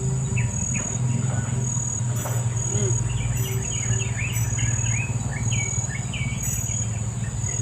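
Insects droning steadily in a high, even buzz, with birds chirping in quick short notes through the middle, over a steady low rumble.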